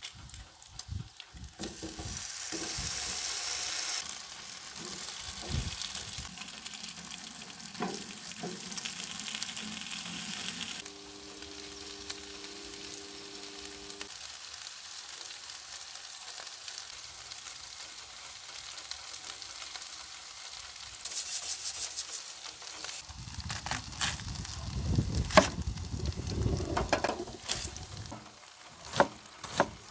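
Bacon and potato wedges sizzling on a hot steel flat-top griddle, with a louder burst of sizzling about two seconds in. Toward the end a chef's knife knocks sharply against a wooden cutting board several times.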